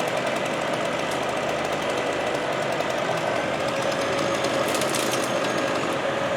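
An engine running steadily, its pitch dropping slightly about four seconds in.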